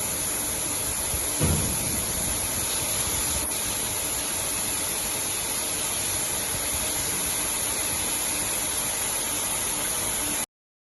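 Semi-Stal Compact 1½ crate washing machine running, its water jets spraying with a steady hiss. There is a brief low thump about a second and a half in, and the sound cuts off abruptly near the end.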